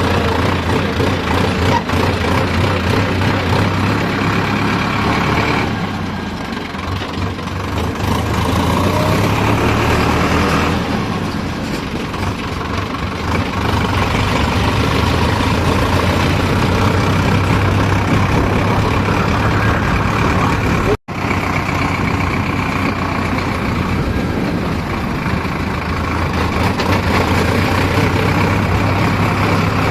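JCB 3DX backhoe loader's diesel engine running steadily under work, its note easing for a couple of seconds about six seconds in and picking up again. The sound cuts out for an instant about two-thirds of the way through.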